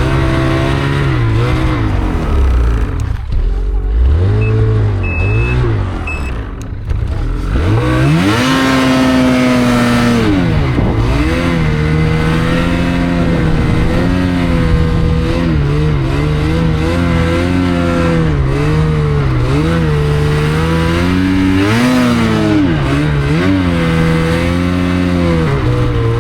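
Snowmobile engine revving under changing throttle, its pitch rising and falling. It runs lower and quieter for a few seconds, revs up sharply about eight seconds in, then holds high revs with repeated brief dips.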